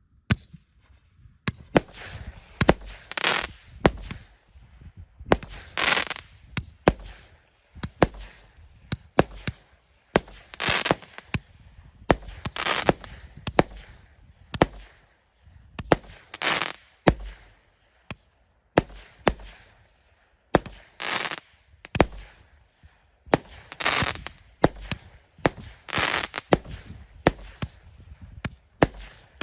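A consumer firework cake (multi-shot battery, 49 shots) firing in sequence: sharp launch thumps, each followed by an aerial burst with a crackling, fading tail, a shot roughly every one to two seconds.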